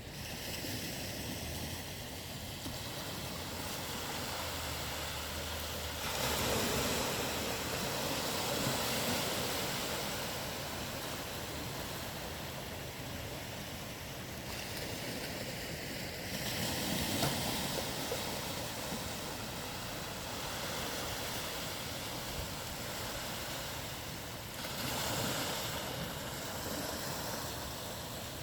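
Ocean surf: a steady wash of waves, with a breaker swelling up and washing in three times, roughly every nine or ten seconds.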